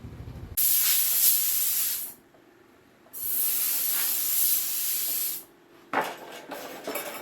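Two long hissing blasts from a pressurised spray, the first about a second and a half long and the second about two seconds, followed by a few knocks and rattles near the end.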